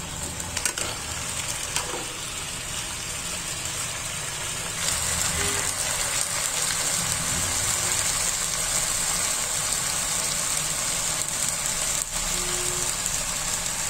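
Tofu and broccoli stir-fry sizzling steadily in its sauce in a pan on a medium-to-low flame, getting a little louder about five seconds in.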